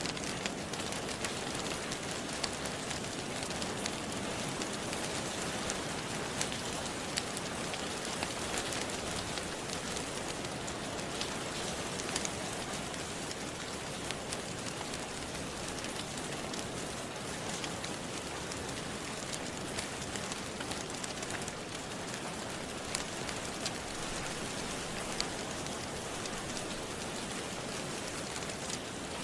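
Steady rain, with scattered sharp crackles from a wood fire in a fireplace.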